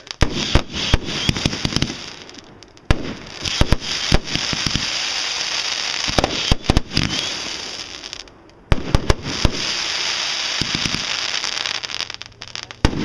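Aerial fireworks going off in rapid succession: sharp bangs over dense crackling, with two short lulls, about two and a half and eight and a half seconds in.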